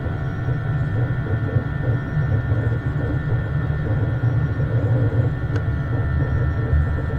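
Jet airliner cabin noise in flight: a steady low rumble of engines and airflow with a few steady whining engine tones held above it.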